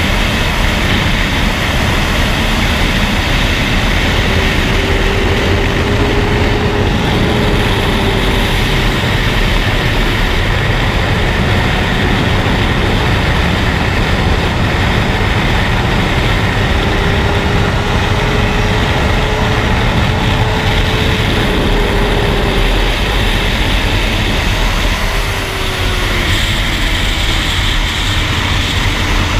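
Steady wind rush over a GoPro's waterproof case while riding a 2007 Suzuki GSX-R750 sport bike, with the inline-four engine running underneath at a faint pitch that rises and falls a little. The loudness dips briefly near the end as the engine note falls.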